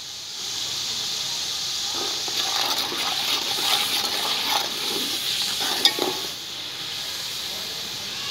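Browned onions sizzling in ghee in an aluminium pot while a steel ladle stirs the newly added turmeric in, scraping against the pot from about two seconds in, with one sharp clink of the ladle on the metal near six seconds. The sizzle settles to a quieter steady hiss near the end.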